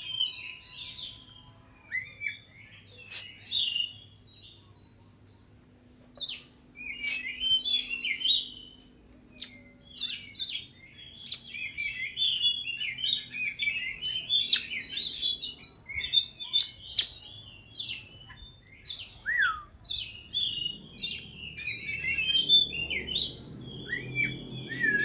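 Oriental magpie-robin singing: a varied run of quick whistles, chirps and short trills. The song is broken by pauses at first and runs almost without a break from about six seconds in.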